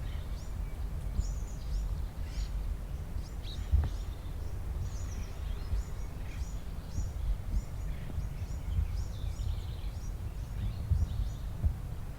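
Small birds chirping over and over in short, falling notes, over a steady low rumble. A single knock about four seconds in.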